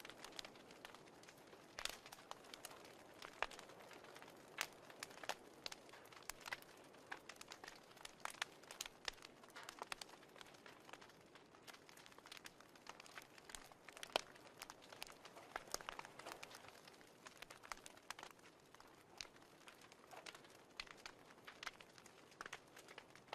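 Fireplace crackling faintly: irregular sharp pops and snaps over a soft steady hiss.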